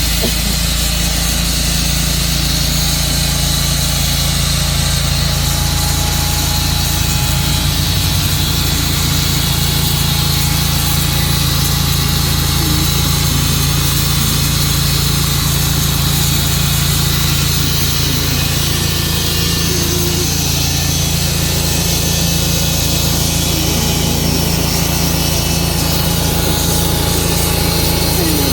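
Tru-Cut band sawmill running steadily, its blade cutting lengthwise through a Tree of Heaven log.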